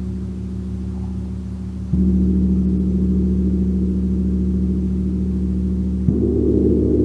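A gong struck softly with a mallet, giving a sustained low, pulsing hum. It is struck again about two seconds in, which swells it louder, and once more near the end.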